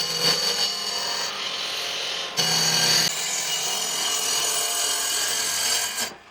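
An electric power tool working wood: a steady whine over noise that shifts abruptly a few times, then cuts off suddenly near the end.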